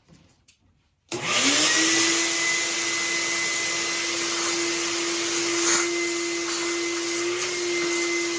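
Shop vacuum switched on about a second in: its motor spins up quickly with a rising whine, then runs steadily, a high whine over a rushing air noise.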